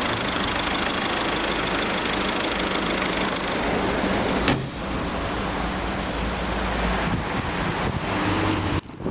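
Ford Focus running, a steady engine and road-noise rumble, with a sharp click about four and a half seconds in.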